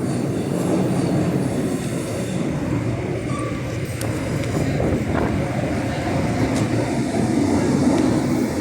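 Train running into a station platform, a loud steady noise of wheels and running gear on the rails.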